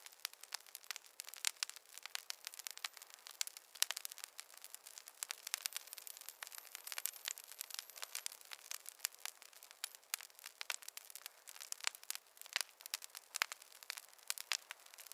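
Wood fire crackling in a fireplace: a steady, irregular stream of small pops and snaps over a faint hiss.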